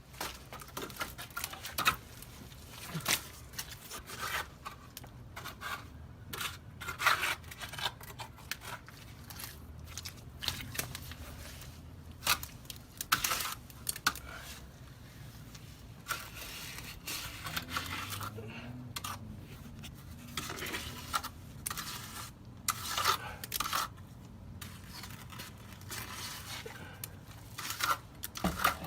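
Irregular scraping and rustling broken by many sharp knocks and clicks, with no steady rhythm.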